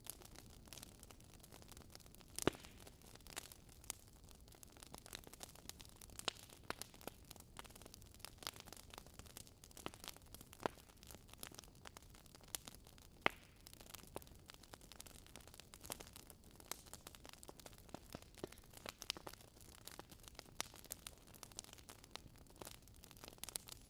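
Campfire crackling: irregular sharp pops and snaps over a faint low hiss, with a louder pop about two and a half seconds in and another about thirteen seconds in.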